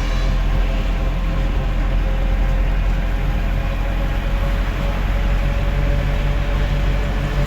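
Delivery truck's engine running steadily with road noise while driving, a constant low hum.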